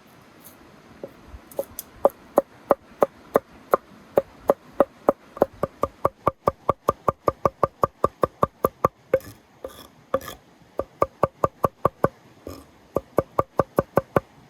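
A knife chopping on a wooden cutting board: steady, even strokes, about three to four a second, with a brief break about nine seconds in.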